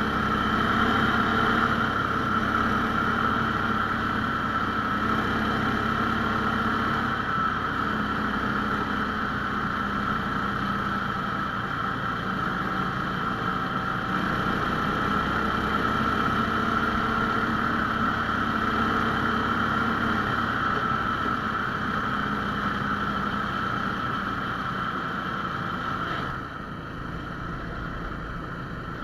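17 hp Lifan engine of a Laika 2M tracked motor sled running steadily under way, easing off with a drop in loudness near the end.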